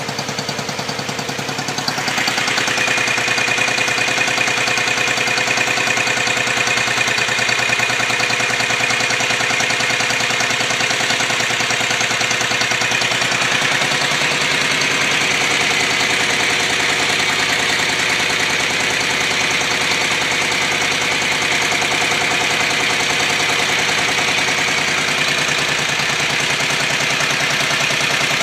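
Dnepr K-650 motorcycle's flat-twin engine running steadily at idle, a little louder from about two seconds in.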